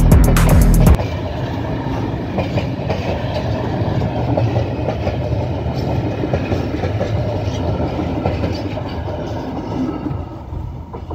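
A train running along the railway line, a steady rumble of wheels on the rails that gets fainter near the end. Loud music plays at the very start and cuts off about a second in.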